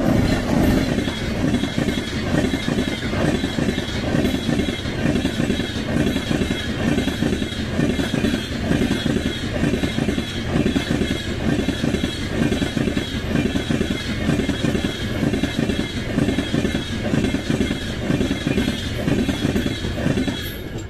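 Express passenger train behind an electric locomotive passing at high speed close by: a loud, continuous rush with a fast, steady clatter of wheels over the rail joints. The sound falls away quickly near the end as the last coach goes past.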